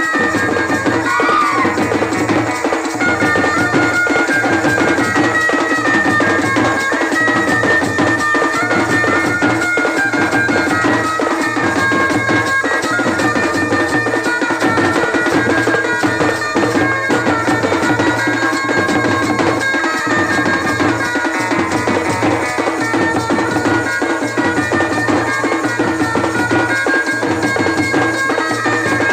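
Wedding band music: a reedy lead melody over a steady, repeating drum beat, played loud.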